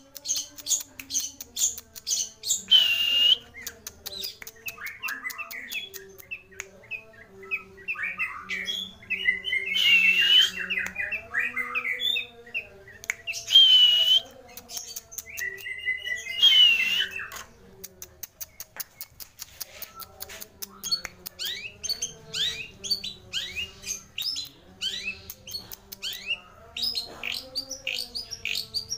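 Long-tailed shrike (cendet) singing a long, varied song of rapid chattering and chirping notes packed with mimicked phrases. The song is broken by four loud, harsh screeches.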